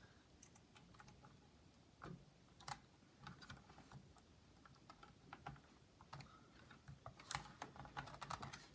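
Faint, scattered plastic clicks and taps of an HP Pavilion dv6000 laptop's keyboard being handled and connected, with a few sharper clicks about two seconds in and again near the end.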